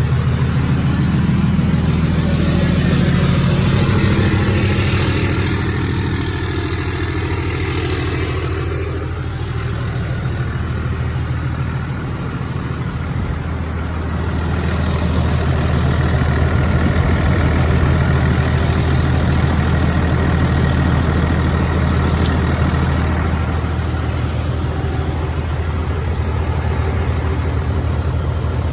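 2011 Ram 2500's 6.7-litre Cummins turbo-diesel inline-six idling just after a cold start, having sat for a couple of weeks. It runs a little fuller for the first several seconds, then settles to a steady idle.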